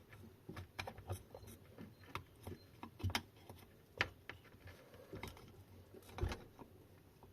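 Scattered small clicks and taps at irregular spacing, the sharpest about four seconds in, from hands and tools working at siliconed wiring and a connector inside an e-bike hub motor.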